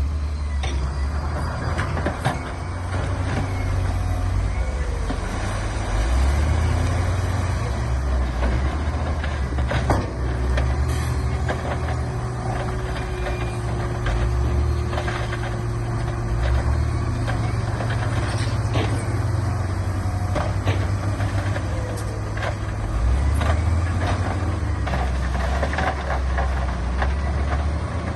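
Heavy diesel earthmoving machinery running steadily, its deep engine note rising and falling with load, with a few sharp knocks.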